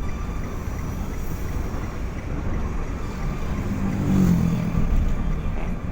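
Car on the move: steady engine and road rumble, swelling louder for about a second around four seconds in.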